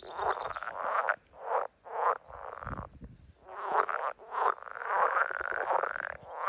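Frogs croaking: a run of short rattling calls, one after another, some overlapping.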